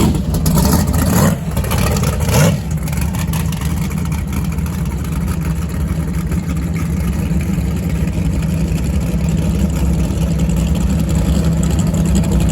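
Jet boat engine running at a steady low pitch, with a couple of brief loud rushes of noise in the first two and a half seconds.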